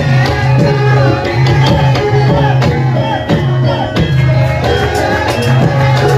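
Javanese gamelan music with a hand drum keeping a steady beat under sustained metallophone notes, and a singer's voice over it.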